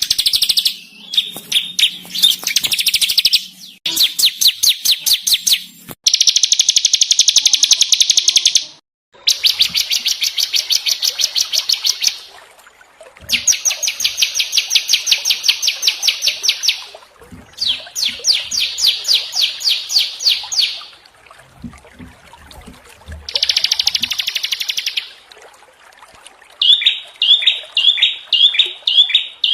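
Small songbirds singing in rapid, rough-sounding trills of fast repeated notes, in bursts of one to three seconds with short gaps between. Near the end a different call takes over: repeated down-slurred notes, about three a second.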